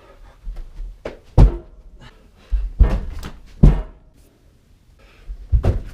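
A series of loud, irregular thuds and knocks, about five or six, the heaviest near the start of the second and third seconds.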